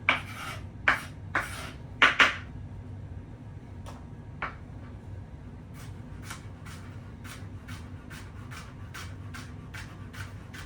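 Knife chopping an onion on a cutting board: a few loud chops in the first couple of seconds, then steady chopping at about three strokes a second from around the middle.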